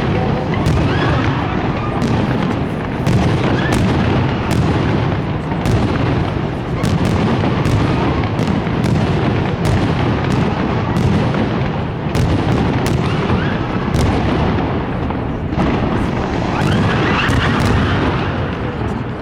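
Fireworks display: aerial shells going off in a dense, continuous barrage of booms and sharp bangs, with rumbling echoes between them.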